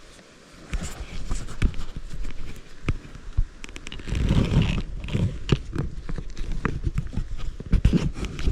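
Close rustling with many irregular clicks, knocks and thumps, as of gear being handled right at the microphone, heaviest about four to five seconds in.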